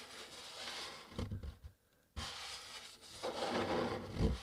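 Fingertips rubbing along the underside of a cardboard box: two soft, scratchy sweeps with a brief pause between, and a faint knock of the hand against the cardboard near the end of each.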